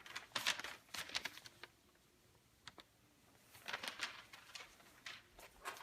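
Handling noise from a small handmade craft bird being picked up and moved about: irregular light clicks, taps and rustles in two flurries, with a quieter second or so between them.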